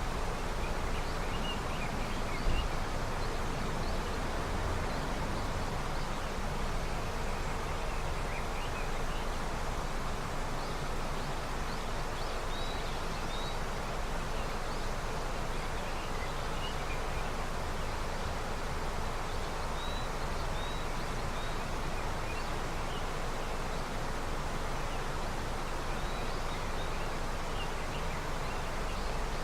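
Steady rushing of a river swollen with snowmelt, with faint high chirps scattered through it and one brief louder sound about two and a half seconds in.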